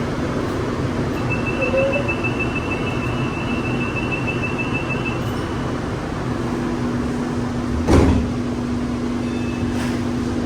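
Train door warning: rapid high beeping for about four seconds, then the sliding doors shut with a single loud thud about eight seconds in, over the train's steady running noise and a low hum.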